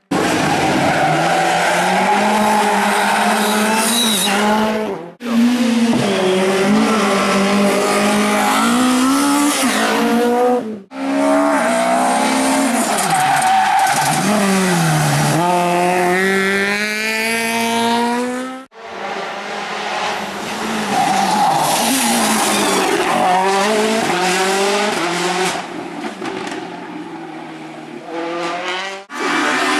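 Rally cars driven hard on a special stage, their engines revving up and down through the gears in several short clips cut together, each ending abruptly. There is some tyre squeal.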